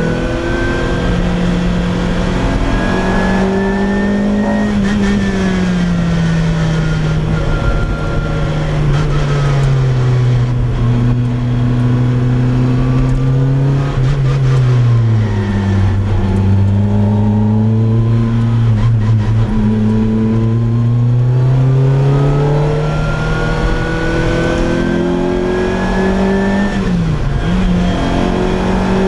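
Loud exhaust of a naturally aspirated Lotus Exige Cup's four-cylinder engine under way, its pitch climbing and falling as the car accelerates, lifts and changes gear, with a long steady climb in revs in the second half.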